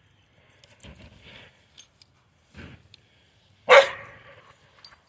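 Dogs play-fighting, with a few short, softer sounds and then one loud bark about three and a half seconds in.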